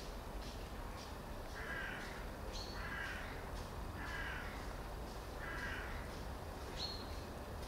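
A bird calling outdoors: four short, harsh calls about a second apart in the first two-thirds, with a couple of thin, higher chirps among them, over a steady low outdoor rumble.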